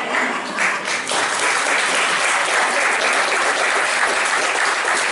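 Audience applauding, steady and dense throughout.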